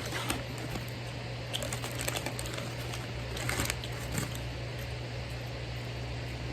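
Scattered small crinkles and clicks from someone eating and handling a fast-food meal and its packaging, in clusters over the first four seconds, over a steady fan hum.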